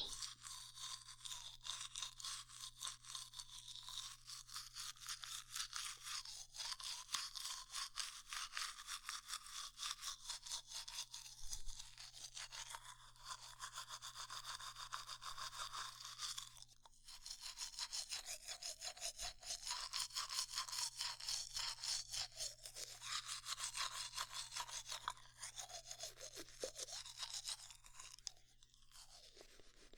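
Soft, rapid bristly brushing strokes close to the microphone, an ASMR stand-in for teeth being brushed and cleaned, going on steadily with a few short breaks.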